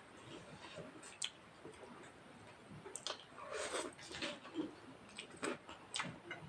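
Close-miked eating sounds: chewing with a few sharp, wet mouth clicks and lip smacks, and a short noisier chewing stretch in the middle.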